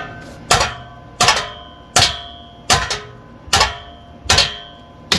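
A hammer striking the car's exhaust metal, about eight blows spaced roughly three-quarters of a second apart, a couple of them doubled, each leaving a bright metallic ring.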